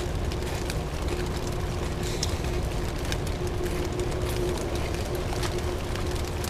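Steady rain on thin plastic sheeting: a constant hiss scattered with sharp taps of individual drops. A faint low hum comes and goes underneath.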